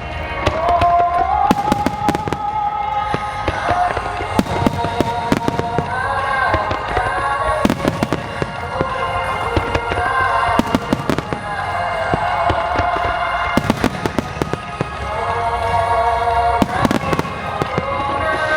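Aerial fireworks shells bursting in irregular clusters of sharp cracks and bangs, over a song with a sung melody that plays without a break.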